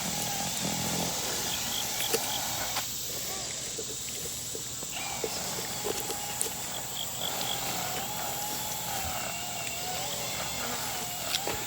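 Quiet handling of a raw chicken carcass: a knife cutting a thigh free through the hip joint, with a few faint small clicks over a steady background hiss.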